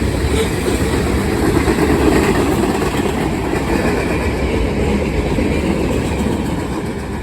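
Norfolk Southern freight train rolling past at close range: a steady rumble and clatter of wheels over the rails, easing off slightly near the end.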